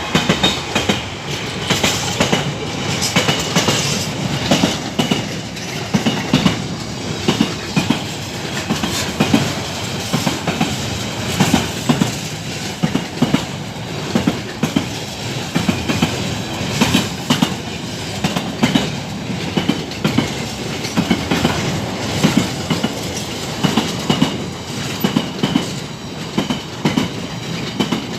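Freight wagons behind a Class 66 diesel locomotive rolling past, wheels clacking in a steady, even rhythm about once a second.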